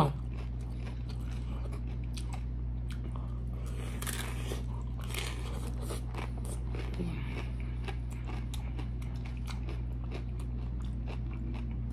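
A person chewing a crunchy tostada topped with shrimp ceviche: a run of small crisp crunches and clicks, thickest about four to five seconds in.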